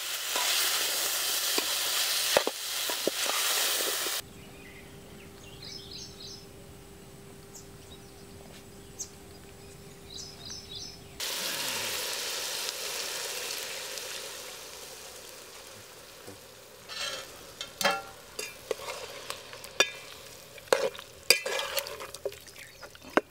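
Chicken pieces sizzling loudly as they fry in a large metal pot, with a ladle stirring through them. After a quieter stretch, a loud hiss comes as liquid is poured into the hot pot, fading over a few seconds. Then the ladle clinks and scrapes against the pot as the gravy is stirred.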